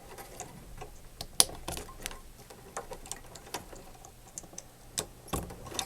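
Scattered light clicks and taps of wire leads being handled and pushed onto their connectors as the dehumidifier's level switch leads are reconnected to the wiring harness, the sharpest click about a second and a half in and two more near the end.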